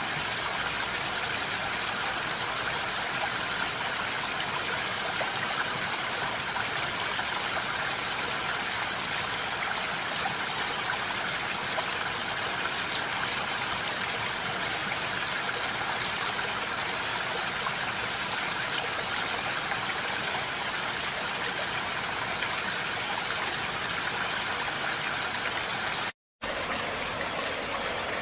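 Steady rush of flowing water, like a stream. It breaks off for a brief silent gap near the end and then resumes slightly duller.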